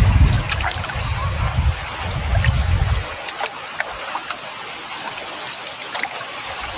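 River water trickling and splashing around a canoe, with scattered small splashes. Wind buffets the microphone for about the first three seconds, then eases.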